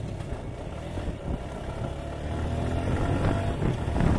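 Suzuki Gixxer 155's single-cylinder engine running as the bike moves off, its pitch and loudness rising gently toward the end.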